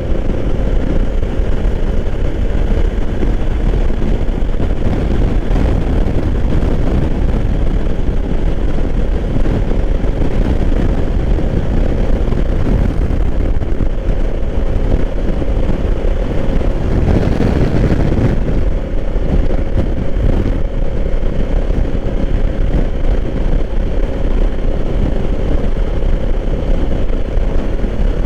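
2020 Honda Africa Twin's parallel-twin engine running at road speed, with steady wind rush over the microphone. A brief louder swell comes about 17 seconds in.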